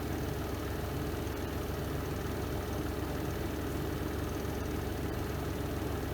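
Renova semi-automatic twin-tub washing machine spinning in its spin drum: a steady, unchanging low hum from the motor and drum.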